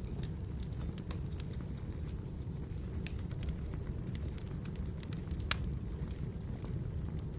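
Firewood burning, with irregular sharp pops and crackles over a steady low rumble.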